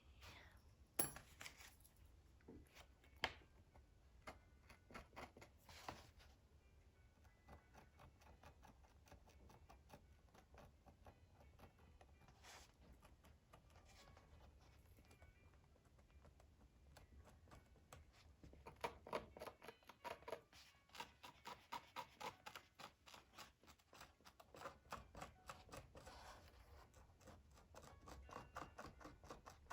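Faint hand-tool work on Torah parchment: a few scattered small clicks, then from about two-thirds of the way through a run of quick scratchy strokes, several a second, as a tab is picked and scraped at.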